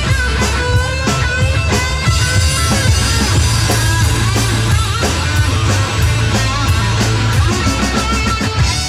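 Live rock band playing an instrumental passage: electric guitar with wavering, bending notes over bass guitar and a drum kit.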